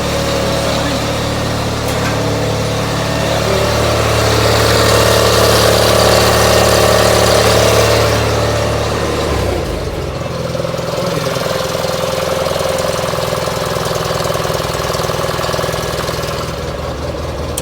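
Onan CCKA two-cylinder air-cooled engine on a Gravely 817 tractor running steadily just after a cold start, after months of sitting. It runs louder around the middle, then settles to a lower, steady run about halfway through.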